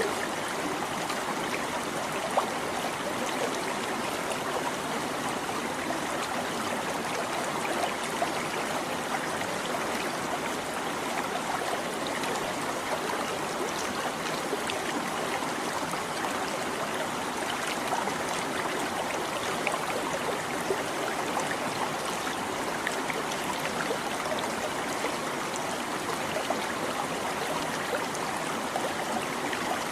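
A small stream babbling and trickling steadily, with many small splashes throughout.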